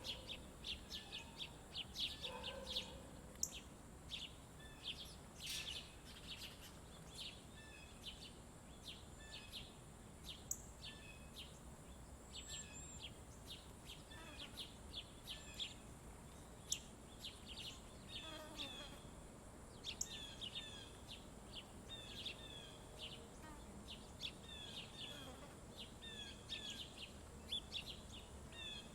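Small birds chirping at a feeder: many short, high chirps, several a second, busier in the second half, over a faint steady high hiss.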